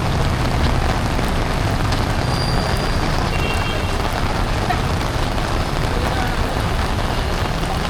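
Heavy rain pouring onto the street in a steady hiss, with a low rumble of road traffic underneath.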